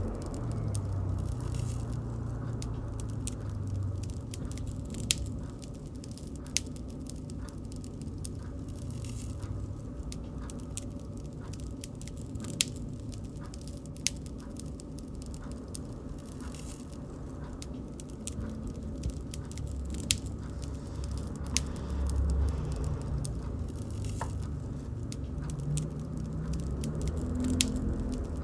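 Bonfire of burning wood crackling: a steady low rumble with irregular sharp pops and snaps.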